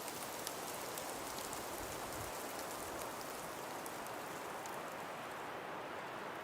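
Steady hiss of wind and falling snow, with fine ticks of snow grains striking, which thin out near the end.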